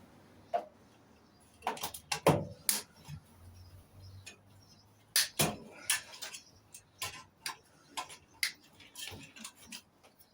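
Irregular metallic clicks and knocks of hand tools and loose metal parts while a microwave oven is taken apart, with a couple of louder clanks.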